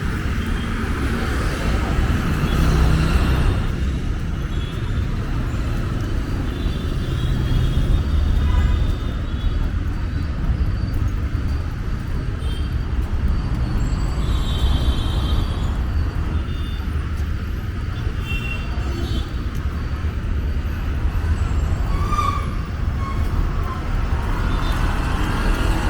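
Busy city street traffic: a steady rumble of passing vehicles and engines.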